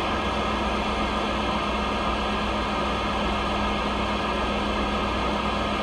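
CB radio receiver hissing with steady static, the band open with no signal coming through, over a steady low hum.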